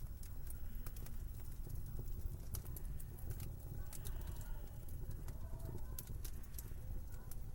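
Wood fire crackling in a fireplace, with irregular sharp pops over a steady low rumble. A faint wavering tone rises and falls in the middle of the stretch.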